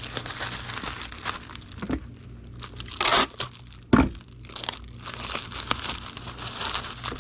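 Plastic bubble wrap being handled and wrapped around a small box, crinkling and rustling, with a louder rustle about three seconds in and a sharp snap about a second later.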